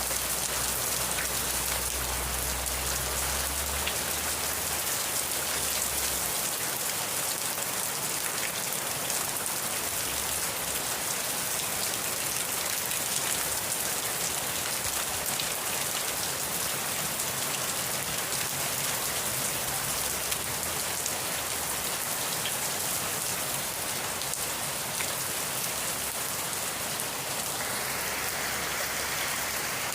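Steady rainfall, a dense even hiss of drops hitting a surface, with a faint low rumble in the first few seconds.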